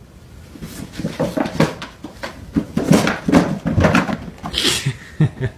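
A dog vocalizing in a run of short, uneven sounds, with a brief hiss near the end.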